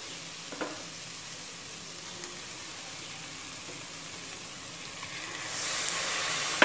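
Onion-tomato masala frying in oil in an open pressure cooker, sizzling steadily. The sizzle grows louder about five and a half seconds in, as raw chicken pieces go into the hot pan.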